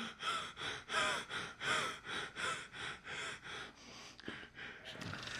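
A person sobbing in quick gasping breaths, about three a second, fading away over the last couple of seconds.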